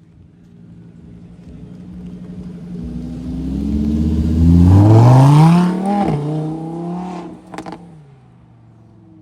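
A performance car's engine approaching and accelerating hard, its pitch climbing and getting louder. A little after the halfway point the pitch drops sharply as it shifts up, then it pulls away. A couple of sharp cracks from the exhaust come near the end.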